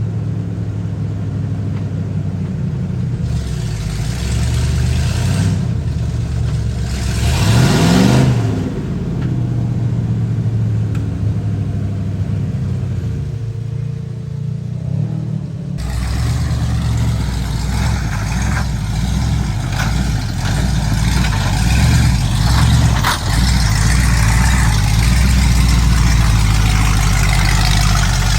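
Ford mud truck engines running and revving hard, with the pitch rising then falling about eight seconds in as a truck goes by. About halfway through, the sound cuts abruptly to a louder, rougher engine that runs on steadily.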